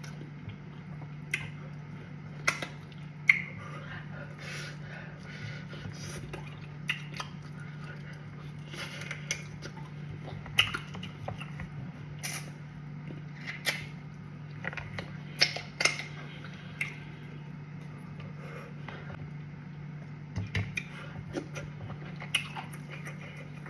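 A person eating cassava fufu with soup: irregular short, wet chewing and mouth-smacking sounds, some louder than others. A steady low hum sits underneath.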